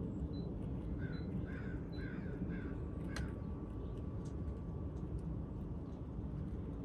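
A bird calling: a quick run of about five short calls between one and three seconds in, over a steady low rumble, with a single sharp click about three seconds in.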